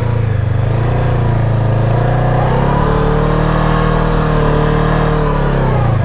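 A heavy motorcycle's engine under throttle while the bike is stuck in loose sand. It revs up from about two seconds in, holds high, then drops back near the end as the rider tries to drive it out.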